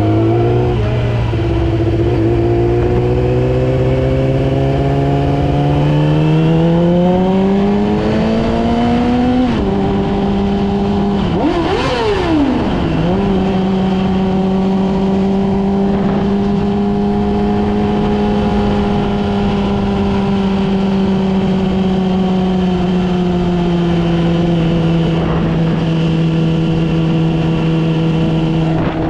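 Yamaha R6's inline-four engine pulling up through the revs for about nine seconds, then dropping at a gear change. Around twelve seconds in the revs dip sharply and rise again. After that it holds a steady cruise, with the revs slowly easing off toward the end.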